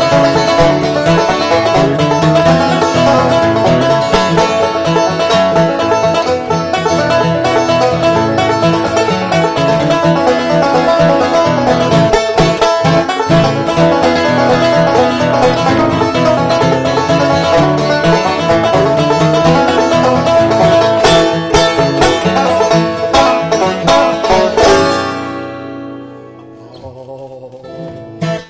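Banjo and acoustic guitar playing a fast bluegrass tune together. They stop together about 25 seconds in, and the last notes ring out and fade.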